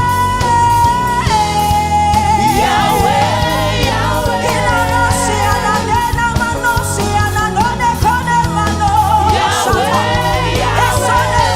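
Gospel worship music: singing over a band with a steady beat, with a held sung note giving way to a moving melody about a second in.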